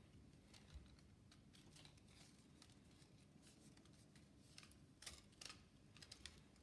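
Faint, irregular small clicks and light scrapes, as of small objects being handled, with a quick cluster of sharper clicks about five seconds in, over a faint low hum.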